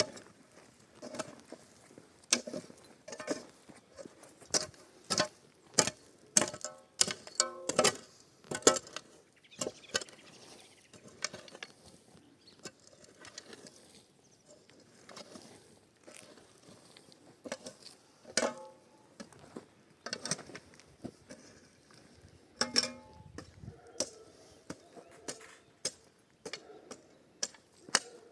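Irregular knocks and clattering, as of hands-on work with wood or tools, with a few short pitched sounds among them.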